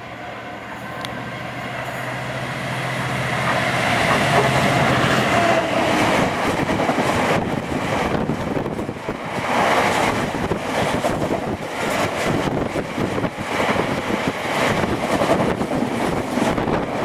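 Class 66 diesel locomotive's two-stroke V12 engine running with a steady hum as it grows louder, passing over the first five seconds, then a train of empty stone hopper wagons rumbling and clattering past over the rail joints.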